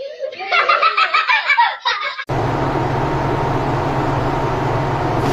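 A person laughing in quick repeated bursts, cut off after about two seconds by a steady low hum and hiss.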